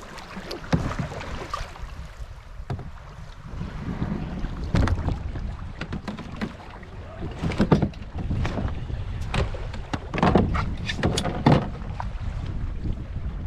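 Water splashing and slapping around an open canoe on the move, in irregular surges, with wind buffeting the microphone throughout.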